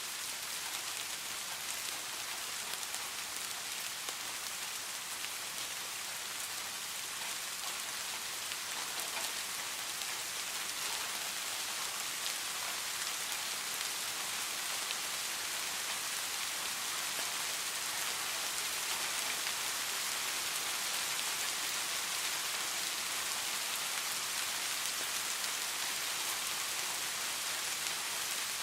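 Steady rain falling on a surface, a dense even hiss of many drops with no thunder.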